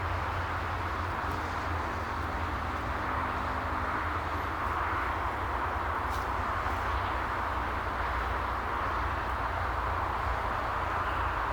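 Steady jet engine noise from a Boeing 747 at the airport, an even rumble and rush that holds level without rising or falling.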